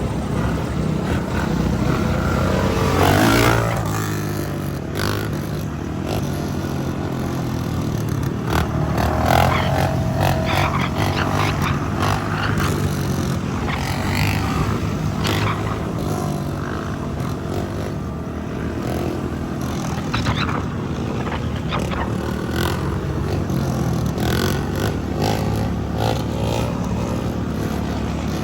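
Dirt bike engines running while being ridden, the pitch rising and falling as the throttle is worked.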